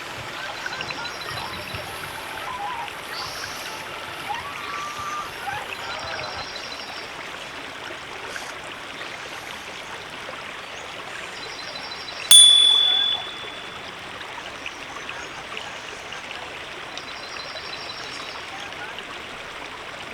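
A river flowing steadily. About twelve seconds in, a single bright ding rings out and fades within a second.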